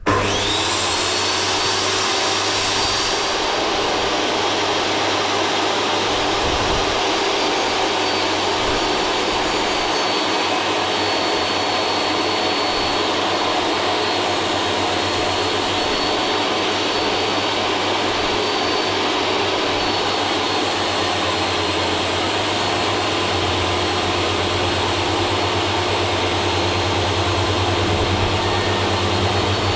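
Table saw running steadily, ripping a sheet of MDF to width; the loud, even machine noise starts suddenly.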